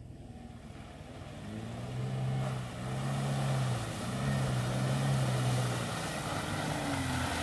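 An off-road 4x4's engine pulling in surges, its note rising and easing three times, over a steady noisy rush.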